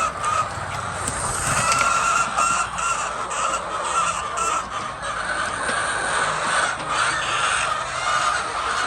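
A large flock of chickens calling all at once, a steady dense chorus with no pauses.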